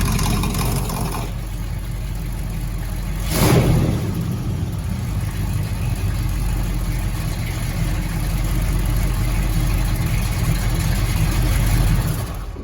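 Big-block Chevy 454 V8 running through its Flowmaster 40 Series exhaust, easing off about a second in, revved once sharply and briefly about three and a half seconds in, then running steadily.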